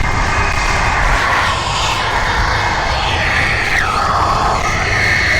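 Aircraft engine running loudly as a plane flies past, its tone dropping in pitch about four seconds in as it goes by.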